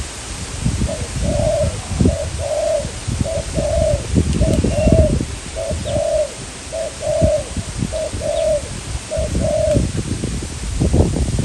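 Spotted dove cooing: about a dozen short, low coos in a steady rhythm, over strong wind buffeting the microphone.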